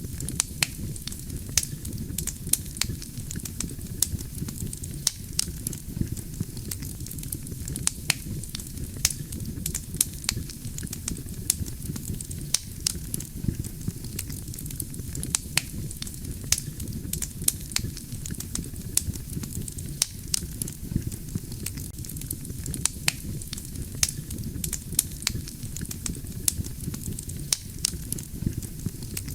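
Wood campfire burning: a steady low rumble of the flames with frequent irregular sharp crackles and pops from the burning logs.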